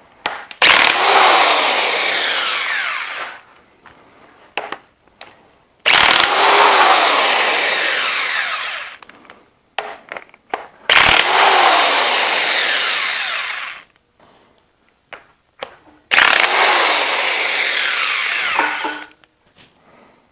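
Impact wrench run in four bursts of about three seconds each, separated by short pauses, while working loose the stubborn flywheel bolts on an Allis Chalmers C engine.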